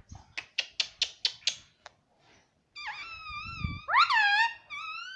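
Pet parrot making a quick run of about seven sharp clicks, then a series of pitched whistling calls that bend up and down, the loudest a rising call about four seconds in.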